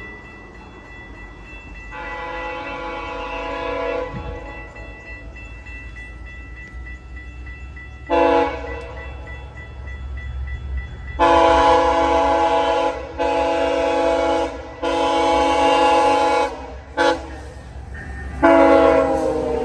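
GO Transit locomotive 655, an MP40PH-3C, sounding its multi-note air horn in a series of long blasts with a couple of short ones, a pattern of crossing signals. Under it a level-crossing bell rings steadily and the approaching train rumbles low.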